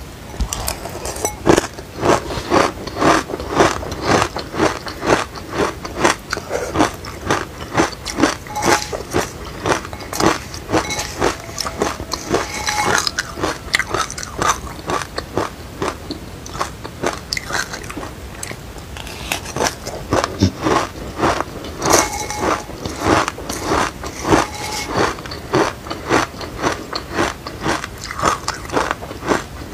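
Crunchy chewing of a mouthful of dry seeds and grains, with crisp crunches at about two or three a second. The crunching goes softer for a few seconds midway, then picks up again.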